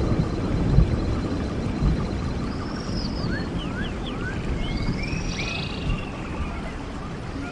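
Stream water running steadily, with birds calling over it: a run of short, sliding whistled notes in the middle of the clip.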